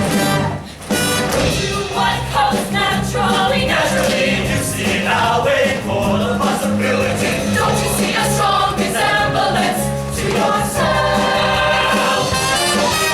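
A choir of voices singing a song with instrumental accompaniment.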